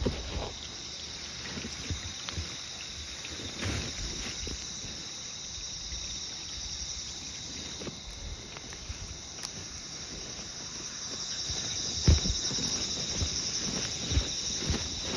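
Insects chirring in a steady high drone, with footsteps on the walk, clearer and more regular in the last few seconds.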